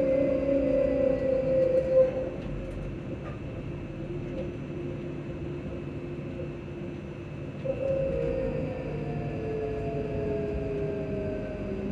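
Electric train's VVVF inverter and traction motors whining under a steady low rumble of the running train. The whining tones slide steadily down in pitch as the train slows. A louder falling whine starts about eight seconds in.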